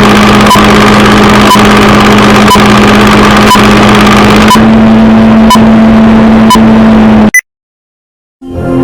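A loud steady electronic hum with a sharp tick and short high beep exactly once a second, in the manner of a countdown. It cuts off suddenly about seven seconds in, and after a second of silence music begins at the very end.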